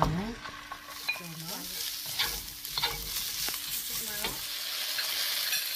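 Pieces of eel sizzling in hot oil in a frying pan, stirred and turned with a wooden spatula.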